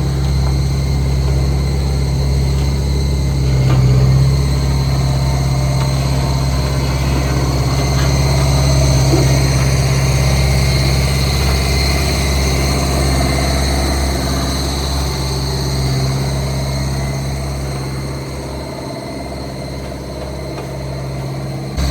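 Heavy diesel engine of construction machinery running steadily with a low, even hum, getting a little quieter near the end.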